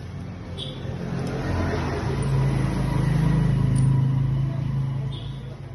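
A motor vehicle's engine hum grows louder to a peak about three to four seconds in, then fades away.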